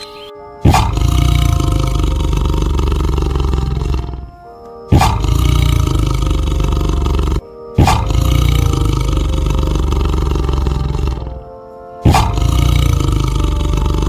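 Big cat roaring loudly four times, each roar starting suddenly and lasting three to four seconds, with short breaks between, over background music.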